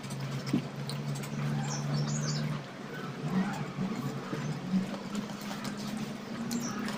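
Mouth sounds of someone biting and chewing a fried risol. A low steady hum runs underneath, and a few short high chirps come about two seconds in and again near the end.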